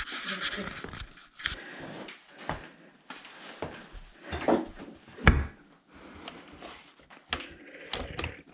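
Irregular knocks, scrapes and clatter of things being handled in a kitchen unit. A sharp, loud knock comes about five seconds in.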